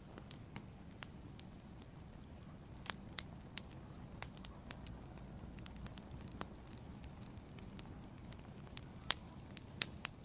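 Wood fire burning in a fireplace: a low, steady rumble of flames with irregular sharp crackles and pops from the logs, the loudest pop about nine seconds in.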